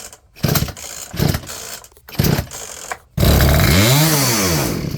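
Poulan P3416 34cc two-stroke chainsaw being pull-started: three short pulls about a second apart, then it catches just over three seconds in, revs up and back down, and dies near the end. It will not hold an idle, with the idle mixture still being set on its new Hipa carburettor.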